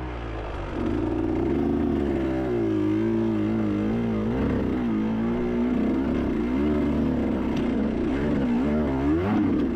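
Dirt bike engine running with its pitch wavering up and down as the throttle is worked, unsteady rather than a clean rev; the rider puts its rough running down to the cold weather.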